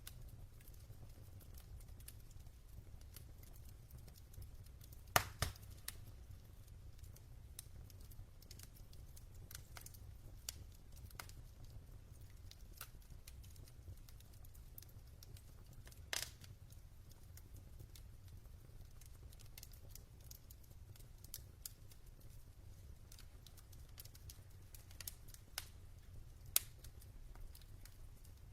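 Logs burning in a fireplace: a low steady rumble with sparse sharp crackles and pops, the loudest a pair about five seconds in, then single pops around sixteen seconds and near the end.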